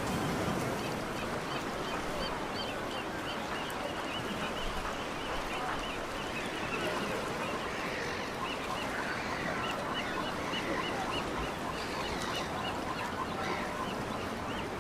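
Birds calling over and over in short, high, arched chirps, several a second, over a steady hiss of background noise.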